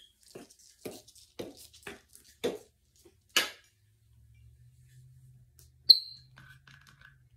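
A run of light taps and clinks, about two a second, from things being handled while cleaning, then a faint low hum with one sharp ringing click and a brief squeak near the end.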